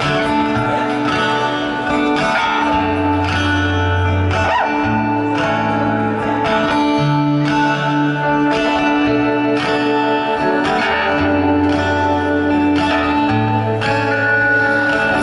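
Instrumental intro of a pop song played live: plucked guitar over sustained low bass notes that change about every two seconds, with a steady beat.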